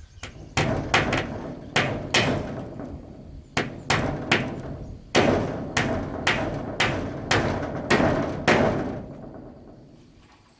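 A hand tool striking wood in a series of about fourteen sharp blows at an uneven pace, each ringing briefly, stopping about nine seconds in.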